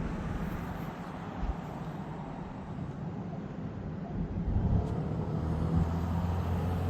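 A vehicle engine running with a steady low rumble and hum, growing louder about two-thirds of the way through.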